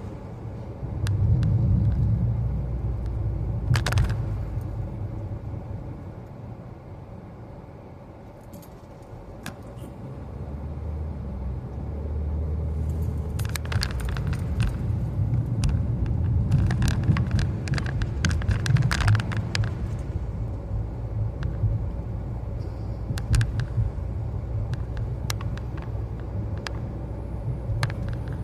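Car cabin road noise while driving: a low engine and tyre rumble that fades about a third of the way through, then builds again, with scattered light clicks and rattles inside the car.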